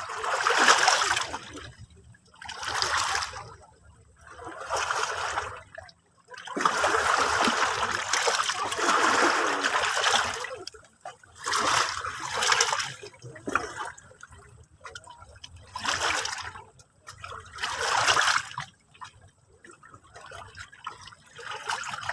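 Sea water splashing and washing in a string of short surges, roughly one every couple of seconds, with a longer unbroken wash in the middle.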